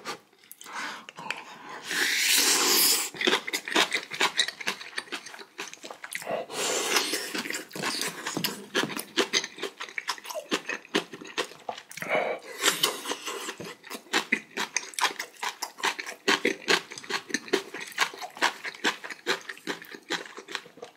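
Close-miked eating sounds from a mouthful of very hot, spicy kimchi stew: wet, rapid chewing clicks throughout, with loud breathy huffs about two seconds in and again around seven and twelve seconds as air is drawn over the too-hot food.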